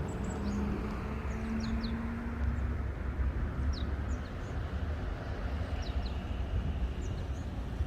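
Outdoor ambience: a steady low rumble with small birds giving short, high chirps scattered throughout.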